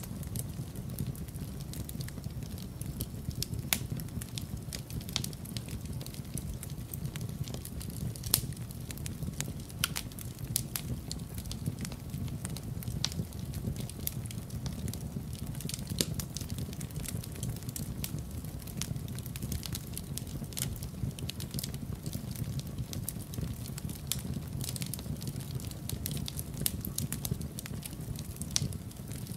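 Wood fire crackling in a fireplace: a steady low rumble with irregular sharp pops and snaps, a few louder pops among them.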